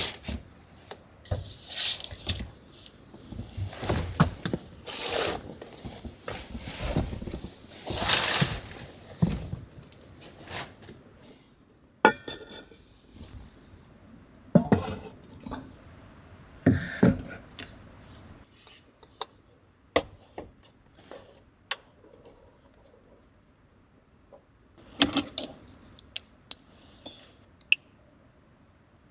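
Dishes, pots and cutlery being handled: scattered clinks, knocks and scrapes, with some rustling in the first half.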